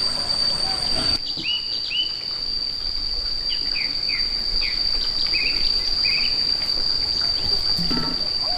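A steady, high-pitched insect drone with short bird chirps repeating over it from about a second in.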